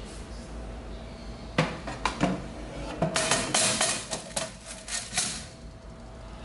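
Kitchenware clinking and clattering: a few separate knocks, then a quick run of rattling clinks with a faint ring to them.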